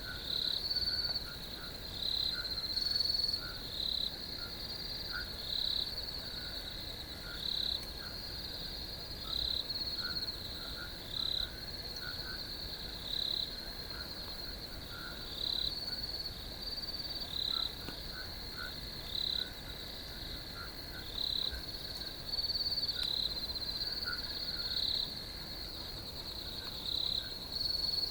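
Crickets chirping: a steady high-pitched trill with louder short bursts of chirping every second or two, and fainter lower chirps beneath.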